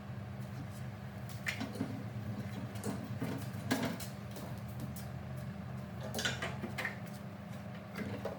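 A few scattered knocks and clinks, as of parts being handled, over a steady low hum.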